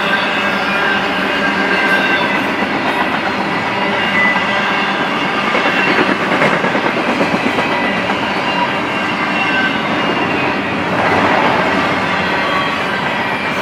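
Double-stack intermodal freight train's well cars rolling past: a steady rumble and clatter of steel wheels on the rails, with faint high ringing tones.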